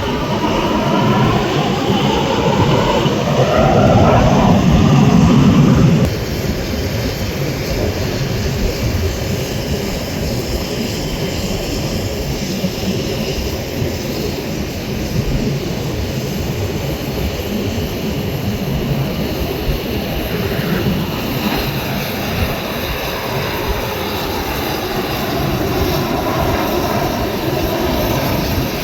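Aermacchi MB-339 jet trainers of an aerobatic formation flying past. A loud pass with a falling whine in the first few seconds drops suddenly about six seconds in to a steady jet roar. A rising whine returns near the end as jets approach again.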